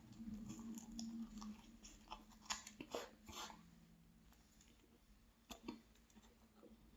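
Close-up chewing of a last bite of pastry: soft, wet crackles and small clicks, busier in the first half and sparse after, with one sharper click about five and a half seconds in.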